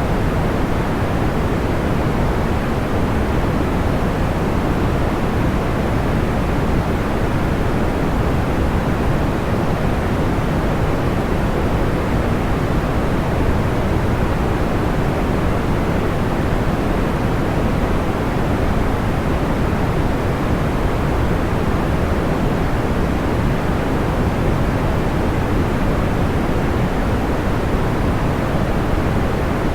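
Steady, deep white noise for sleep: an even hiss weighted toward the low end, with no crackles or changes.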